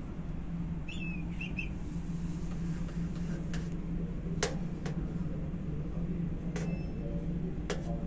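A steady low hum, with three short high bird chirps about a second in and several sharp clicks in the second half.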